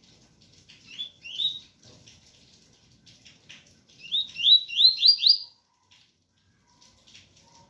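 Coleiro (double-collared seedeater) singing the 'tui tui' song: two rising whistled notes about a second in, then a quick run of five louder rising notes around four to five seconds in, over a background of rain noise.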